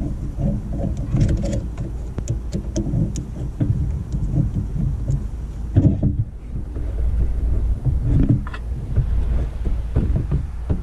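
Irregular knocks, clicks and rubbing as a new rubber radiator hose is worked by hand against its fitting, with one heavier knock about six seconds in, over a steady low rumble on the microphone.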